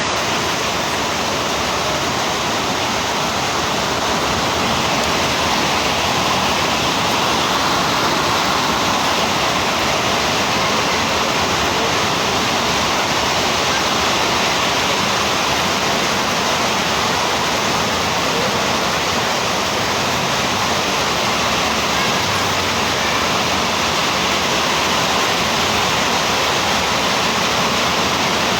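Heavy rain pouring down: a loud, steady, even hiss of a downpour that does not let up.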